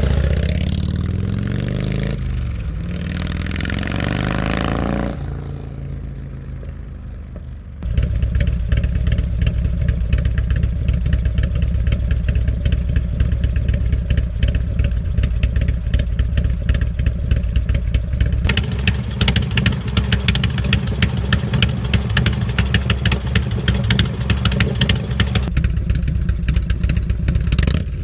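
88 cubic inch Harley-Davidson Road King V-twin exhaust through aftermarket slip-on mufflers. The engine is revved up and down over the first few seconds and then fades. After a sudden cut it idles with a fast, lumpy pulse, and its tone changes twice, at about 18 and 25 seconds.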